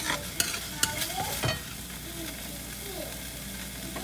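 Chicken pieces sizzling in oil in a metal wok while being stirred with a spatula, which knocks and scrapes against the pan a few times in the first second and a half.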